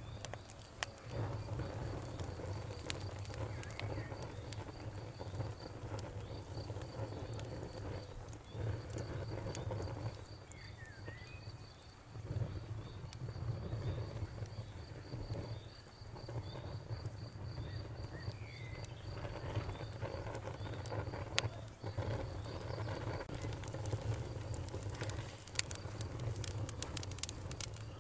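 Wood campfire crackling with scattered sharp pops, over a low steady rumble, while a cricket chirps on in a fast, even pulse and a bird gives a few short calls. The pops come thicker near the end.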